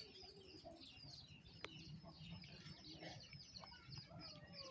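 Faint chirping and clucking from chickens: many short, quick high chirps with a few lower calls.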